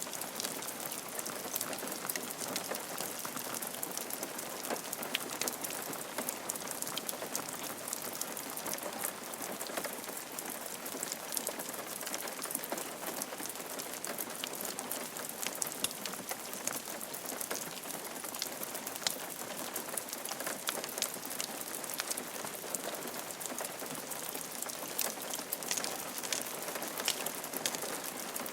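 Steady rain falling on a roof: an even hiss dotted with many small sharp drop impacts.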